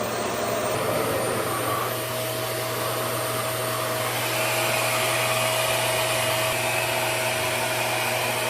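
RevAir reverse-air hair dryer running at a high setting while it draws a section of hair into its suction tube to dry it. It makes a steady rush of air with a low motor hum and a faint steady whine, getting slightly louder about four seconds in.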